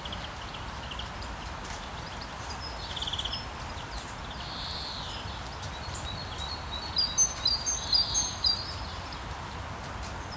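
Rainforest ambience: a steady background wash with birds calling over it, including short buzzy trills. A run of quick, high chirps from several birds about seven to eight and a half seconds in is the loudest part.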